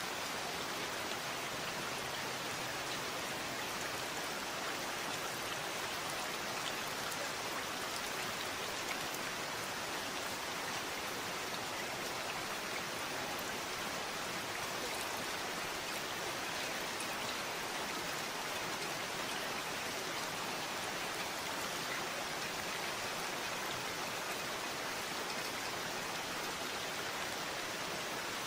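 Steady rain falling, an even hiss of many drops with faint separate drop ticks, unchanging throughout.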